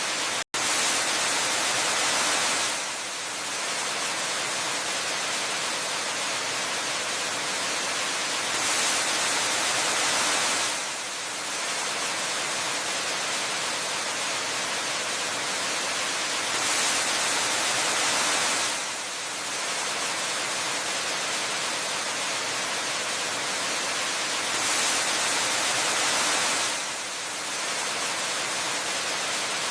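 Steady rushing of a waterfall, swelling slightly louder about every eight seconds, with a momentary dropout to silence about half a second in.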